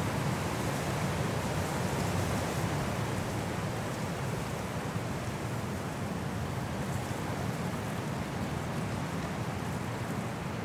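High wind blowing through forest trees in a snowstorm: a steady rushing that holds without a break.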